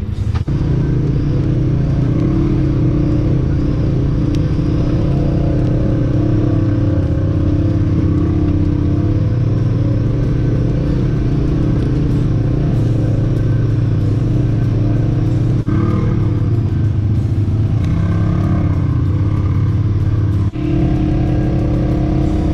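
Honda Pioneer 1000 side-by-side's engine running steadily as it drives the trail, with a brief drop in sound about 16 seconds in and again near the end.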